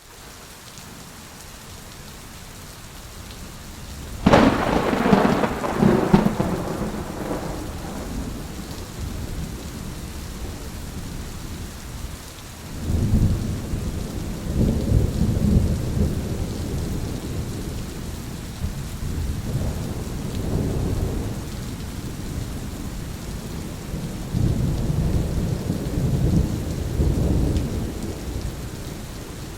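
Steady rain with thunder. A sharp, close thunderclap about four seconds in rolls on for a few seconds, followed by several long, low rumbles of thunder.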